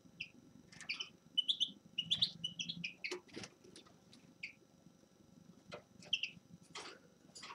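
A small finch calling and twittering in short, scattered chirps, with a few brief clicks among them.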